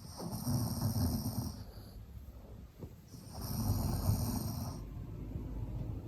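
Maltese dog snoring in its sleep: two long snores about three seconds apart, each with a fluttering low rumble and a hiss above it.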